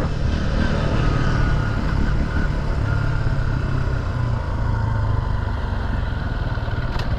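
Off-road vehicle engine running steadily while riding on a trail, with a brief click near the end.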